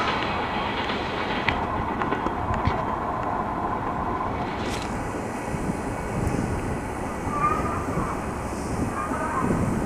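Passenger train rolling along the rails, a steady noise of wheels on track with a few faint ticks.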